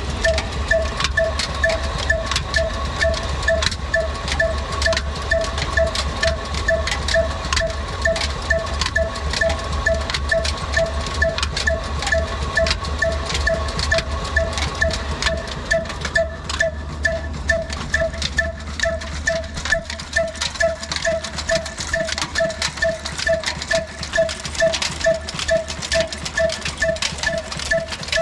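Old black single-cylinder diesel engine running at a slow, even beat while driving a stone flour mill (aata chakki), with a regular rhythmic knock. Its deep low thudding becomes fainter about sixteen seconds in.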